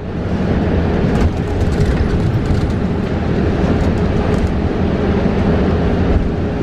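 Interior ride noise of a 2022 New Flyer XE40 battery-electric bus under way: a loud, steady road rumble with a constant whine held through it and light rattles from the cabin.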